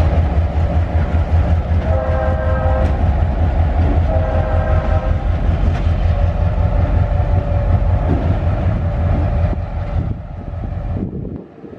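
Train horn sounding a multi-note chord in two blasts of about a second each, then a fainter held tone, over the loud steady rumble of a passing train. The rumble fades near the end.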